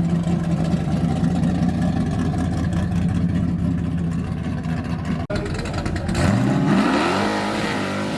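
Car engine running steadily at a low note, then revved about six seconds in, its pitch climbing and holding higher.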